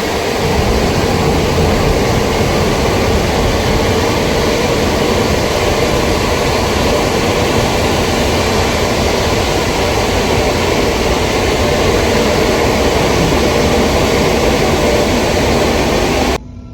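Pressure washer jet spraying water, a loud steady rushing hiss that cuts off suddenly near the end.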